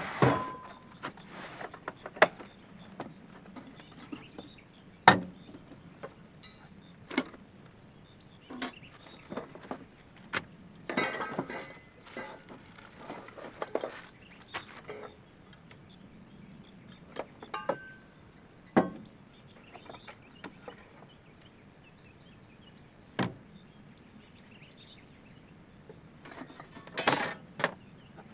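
Scattered light knocks, clicks and clatter at irregular intervals, like small things being handled, the sharpest knock about five seconds in and short bursts of clatter near the middle and near the end.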